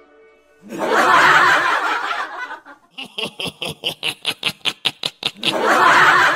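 Comic laughing sound effect: a burst of laughter, then a run of quick snickers that come faster and faster, then the same burst of laughter again.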